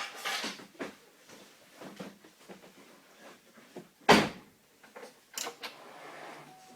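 Scattered clicks and knocks, with one loud, sharp thump about four seconds in; no engine is running.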